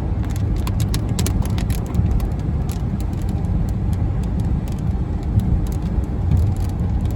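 A car's steady low road and engine rumble, heard from inside the cabin, with scattered light ticks throughout.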